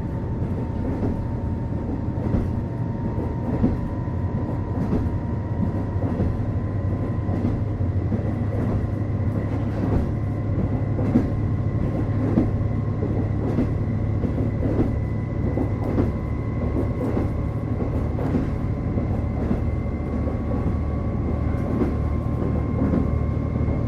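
Onboard running sound of a KiHa 48 diesel railcar: a steady low diesel engine hum with a thin whine that slowly rises in pitch as the train gathers speed, and frequent rail-joint clicks from the wheels.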